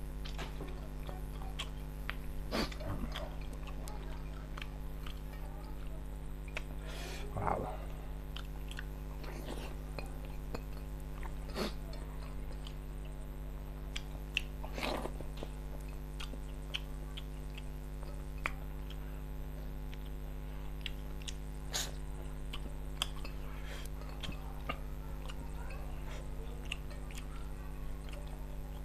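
A person eating by hand from a plate: wet chewing and lip-smacking with scattered small clicks of fingers on the plate, over a steady low hum.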